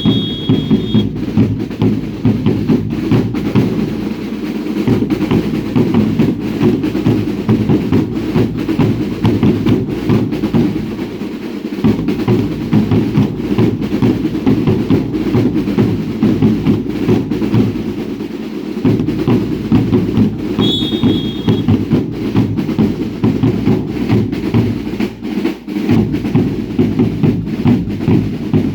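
Drums beaten in a steady, continuous rhythm for a traditional Baile Indio dance. A short, shrill whistle blast sounds at the very start and again about 21 seconds in.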